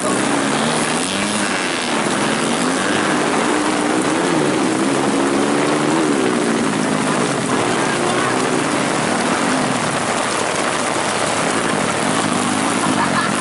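Several grasstrack racing motorcycles revving hard, their engine pitch rising and falling again and again as riders open and close the throttle around the dirt track.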